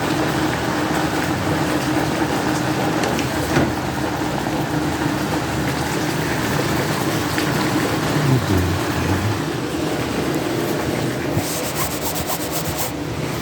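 Heavy rain mixed with hail pelting down in a steady, loud wash of noise, with a cluster of sharper hail hits near the end.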